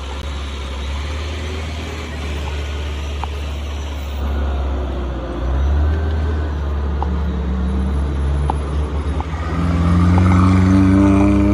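Tractor engine running with a deep, steady drone, speeding up with a rising pitch about two-thirds of the way in.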